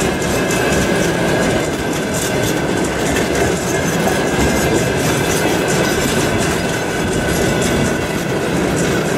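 Freight train of tank cars rolling past, steel wheels clattering over the rail joints with a thin, steady wheel squeal above the rumble.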